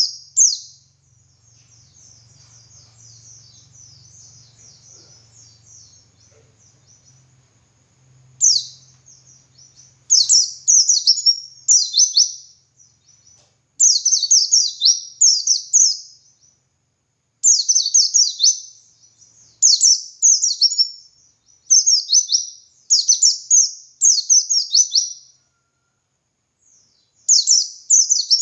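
White-eye (pleci) singing a long, continuous song: soft, high twittering at first, then from about eight seconds in loud bursts of rapid, high, downward-sweeping notes about a second each, repeated with short pauses.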